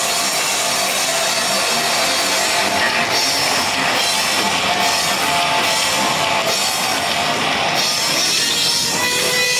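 Heavy metal band playing live at full volume: distorted electric guitars over a drum kit, continuous and dense.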